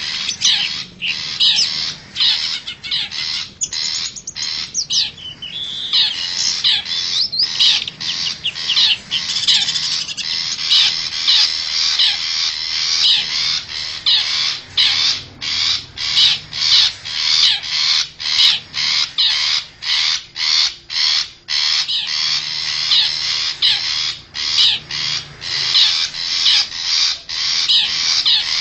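Long-tailed shrike (cendet) lure recording: loud, harsh, rapid chattering and scolding calls that run on almost without pause, broken by short gaps several times a second.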